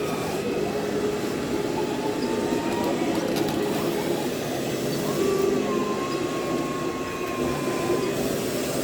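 Radio-controlled scale model vehicles running: a steady mechanical hum with a thin electric-motor whine that wavers in pitch twice.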